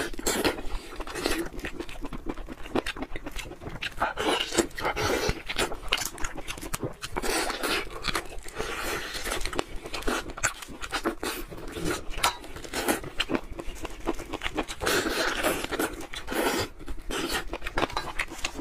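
Close-miked chewing and lip smacking of a person eating tender steamed chicken off the drumstick, with many quick, wet clicks and smacks from the mouth.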